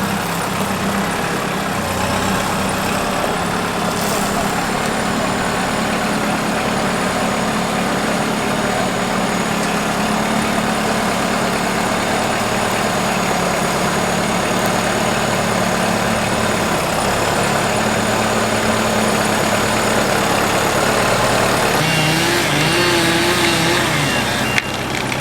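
An engine running steadily, with the sound changing about three-quarters of the way through as a wavering tone comes in.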